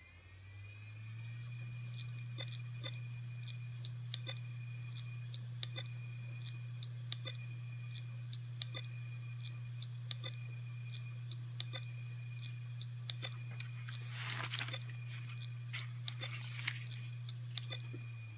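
Failing Seagate hard drive spinning up with a steady low hum, then its heads clicking in pairs about every second and a half, the abnormal noise of a faulty drive; it spins down near the end.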